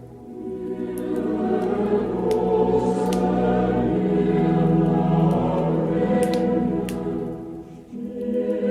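Choir singing a slow Christmas song in long held notes, with a break between phrases near the end. A few sharp crackles from a wood fire sound over it.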